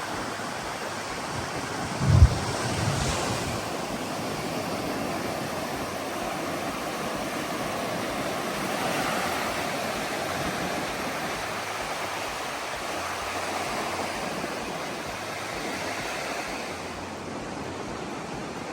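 Ocean surf on the beach, a steady rush of waves, with wind blowing on the microphone and a brief low thump about two seconds in.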